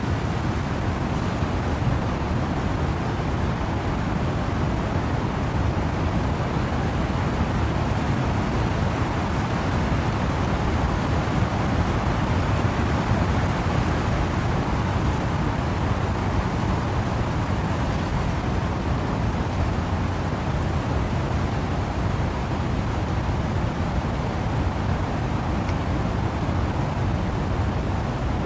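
Wind and rain in trees: a steady, even rush of noise with a strong low rumble beneath it.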